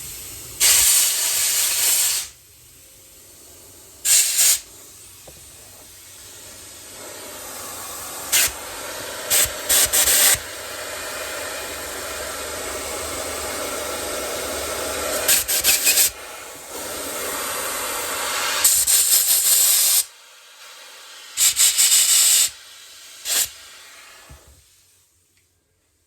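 Compressed air blown in a series of short, loud blasts through a small engine's carburetor jets and passages to clear them of old-fuel clogs. Between blasts a steady hiss of escaping air from a worn air hose grows louder, then dies away near the end.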